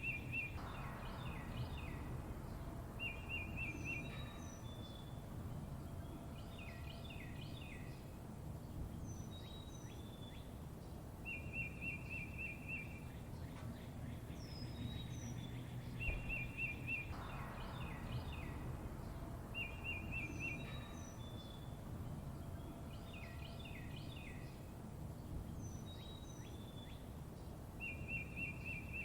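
Songbirds chirping and trilling: short rapid trills, high falling whistles and quick clusters of down-slurred chirps, over a steady low background rumble. The same run of calls repeats about every sixteen seconds, as in a looped recording.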